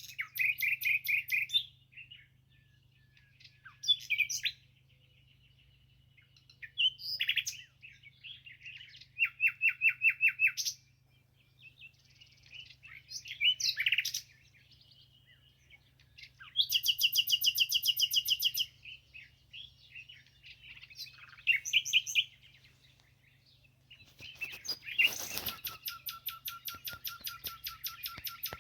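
A songbird singing a string of varied, high-pitched phrases separated by short pauses, several of them fast trills of rapidly repeated notes; the longest trill comes near the end.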